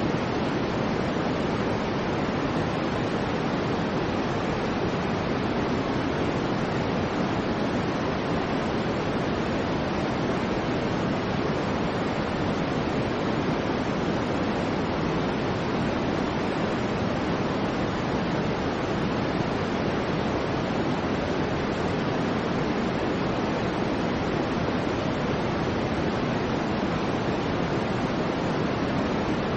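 Soft white noise for sleep: a steady, unchanging hiss weighted toward the low and middle range, mellower than plain white noise.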